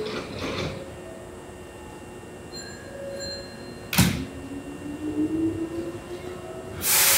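Hankyu electric train at the platform: a sharp knock about four seconds in, then a steady whine that slowly rises in pitch as the train gets moving, and a loud hiss of air starting near the end.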